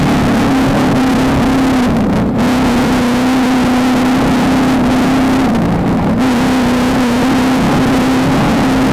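VW Beetle desert race car's air-cooled flat-four engine running hard at high, steady revs over loud constant noise. The engine note dips briefly about two seconds in, then drops for about half a second near six seconds before picking back up.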